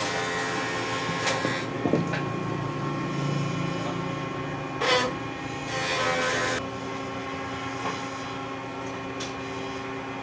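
A motor running steadily with an even hum, with brief louder rasping bursts about five and six seconds in.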